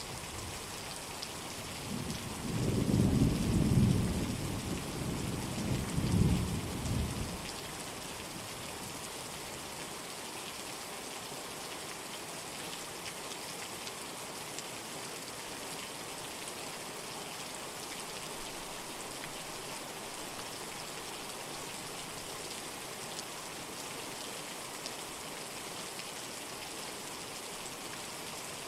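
Steady heavy rain with a rumble of thunder about two seconds in that swells, peaks twice and fades out within about five seconds, leaving the even hiss of rain.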